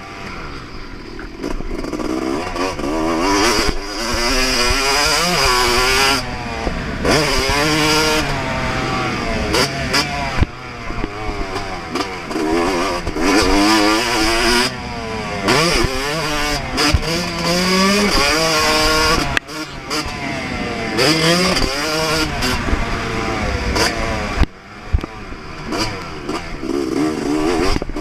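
2024 Yamaha YZ250 two-stroke motocross engine ridden hard on a track, its pitch rising and falling over and over as the throttle opens and closes. The engine briefly drops off twice, about two-thirds of the way through and again near the end.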